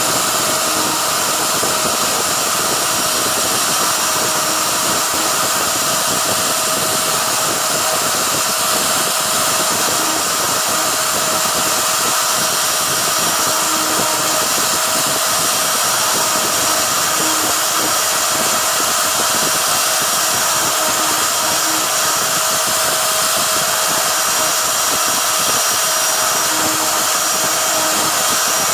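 CNC router's spindle running steadily while it cuts, a loud even whine-and-rush with short low tones coming and going a few times.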